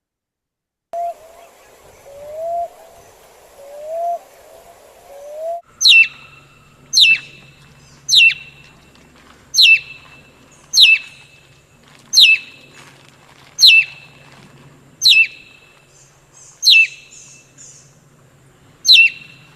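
Recorded bird calls. First come four low rising notes spaced about a second and a half apart. About six seconds in they give way to a series of about ten sharp calls, each falling steeply in pitch, roughly one every second and a half.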